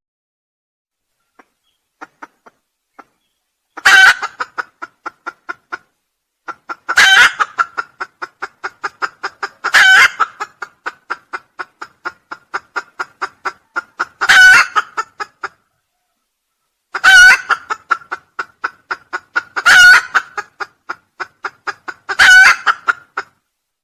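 Junglefowl calling: seven short, loud calls spaced about every three seconds, each trailed by a quick run of softer clucks, four or five a second, that fade away. A few faint clicks come before the first call.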